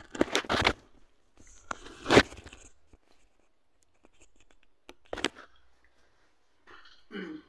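Close-up eating sounds: crunchy chewing for the first second or so, then scattered sharp mouth clicks and smacks, the loudest about two seconds in, and a short hum near the end.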